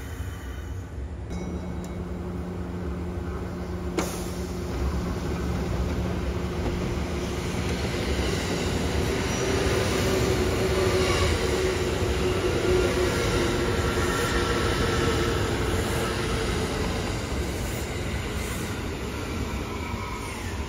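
Kintetsu electric train running through the station, its rumble growing to a peak midway and then easing off, with a steady motor hum underneath. A single sharp click about four seconds in.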